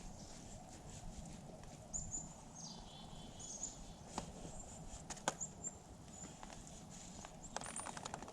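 Small birds chirping in short, high calls, some sliding downward, with a few sharp clicks around the middle and a quick run of clicks near the end, over a faint low rumble.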